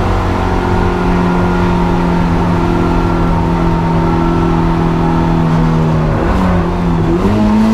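Honda Integra DC2's four-cylinder engine running hard at a steady, high pitch that sags slowly. About seven seconds in, the pitch dips briefly and then climbs again.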